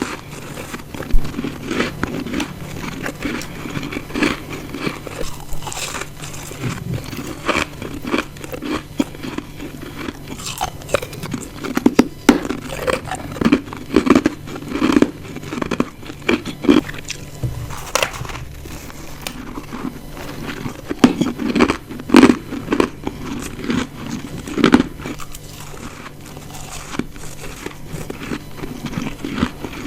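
Ice chunks being bitten and chewed close to the microphone: a run of irregular sharp crunches, some much louder bites standing out among smaller chewing crunches.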